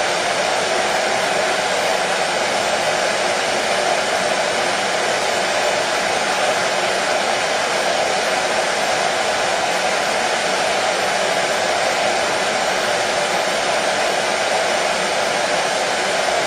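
Hair dryer running steadily: an even, unchanging airy noise.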